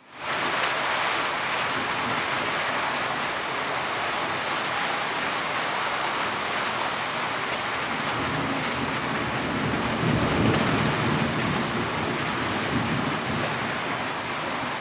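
Heavy rain falling steadily, a dense even hiss of drops that fades in at the very start. A low rumble swells for a couple of seconds about ten seconds in.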